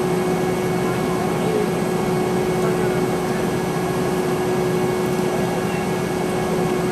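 Boeing 717-200 cabin noise: the rear-mounted Rolls-Royce BR715 turbofans running steadily at low power, a constant whine of unchanging pitch over a steady rush of air.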